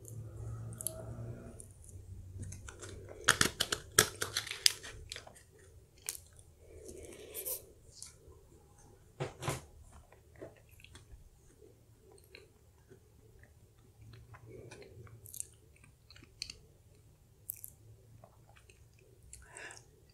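Close-miked chewing of a spoonful of blueberry cheesecake, a creamy cheesecake on a cake base, with wet mouth clicks and smacks. A cluster of sharp clicks comes about three to five seconds in, and another near the middle.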